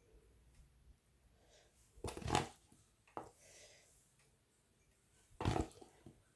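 Kitchen handling as cooked chicken is placed on top of rice in a dish: two short clattering knocks, about two seconds in and again near the end, with a light click and a brief rustle between.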